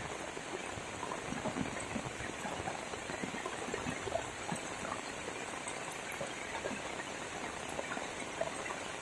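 Heavy rain falling steadily, a dense patter of drops splashing on wet surfaces and puddles.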